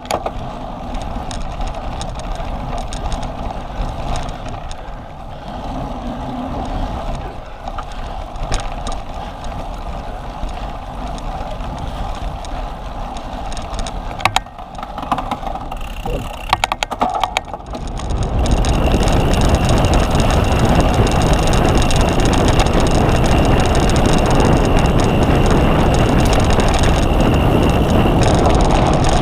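Riding noise from a cyclocross bike ridden at race pace: rolling rumble and rattle with wind on the microphone, and a few sharp clicks past the middle. About two-thirds of the way through it turns much louder and rougher.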